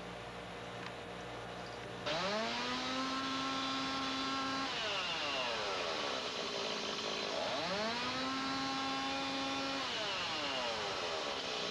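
Two-stroke chainsaw engine idling low, then revved hard about two seconds in: it climbs quickly, holds at high speed, drops back, revs up and holds again, and falls off near the end.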